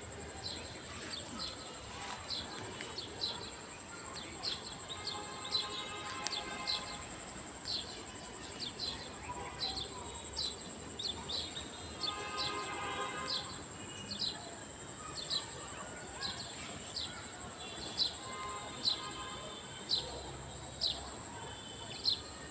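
A bird calling over and over in short, falling chirps, about one a second, over a steady high-pitched hiss of background noise.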